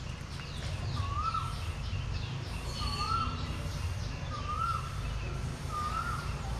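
A bird calling over and over, one short rising-then-falling note about every second and a half, four times, with other birds chirping faintly higher up. A steady low rumble runs underneath.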